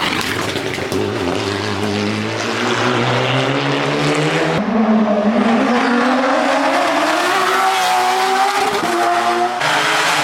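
Race car engine accelerating hard, its pitch rising over several seconds, with abrupt changes about halfway through and near the end.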